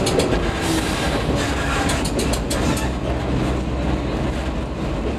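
Diesel railcar running on jointed track, heard from the cab: a steady low rumble, with clusters of wheel clicks over rail joints near the start and again about two seconds in.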